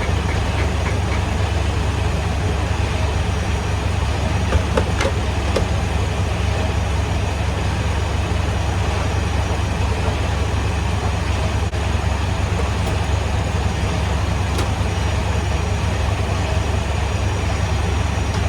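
Semi-truck's diesel engine running with a steady low drone under an even rumble, with a few faint clicks about five seconds in and again near fifteen seconds.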